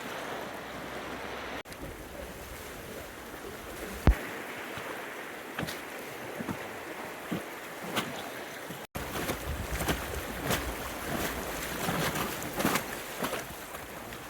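River water rushing and splashing around an inflatable raft, a steady wash broken by many short splashes that come more often in the second half. A single sharp knock about four seconds in.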